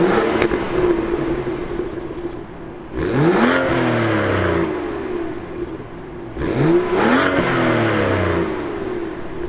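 A 2017 BMW 640i Gran Coupe's turbocharged 3.0-liter inline-six starts, flaring up and settling to a steady idle. The throttle is then blipped twice, a few seconds apart, each rev rising and falling back to idle over about two seconds, heard from behind the car at the exhaust.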